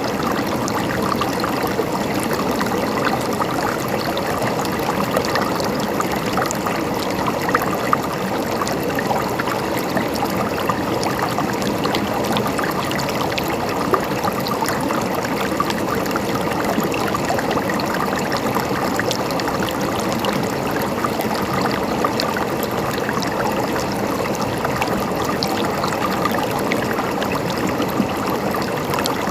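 River water flowing and gurgling steadily, an even rush full of tiny splashes.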